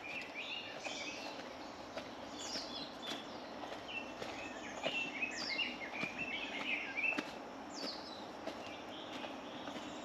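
Birds chirping and calling, with many short, quick falling whistles, over steady outdoor background noise.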